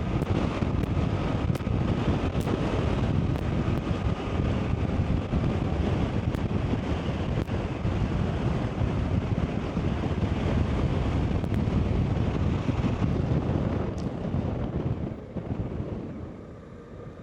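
Wind rushing and buffeting over the microphone of a motorcycle riding at speed, with the bike's running noise underneath. It eases off over the last couple of seconds.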